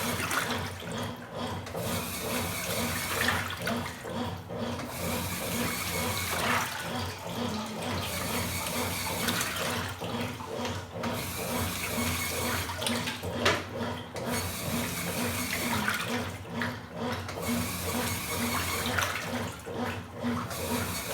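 Top-loading washing machine agitating a load of clothes, water sloshing and churning continuously, with brief lulls every few seconds as the agitator changes direction.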